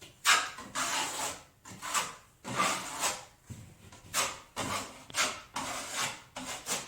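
Drywall knife spreading and scraping joint compound across a drywall patch, in a string of about ten short scraping strokes.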